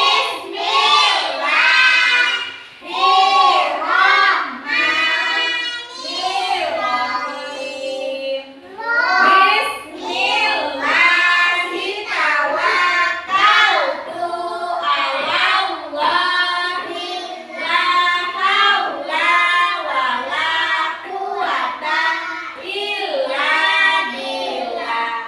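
Group of young children reciting a closing prayer together in unison, in a sing-song chant that goes on in phrases with brief pauses for breath.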